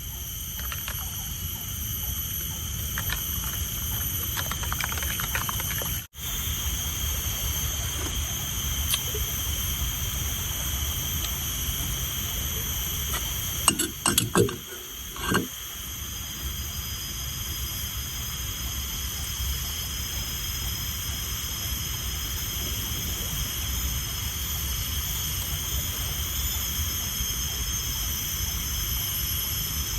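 Steady heavy rain, with a few short louder sounds around the middle.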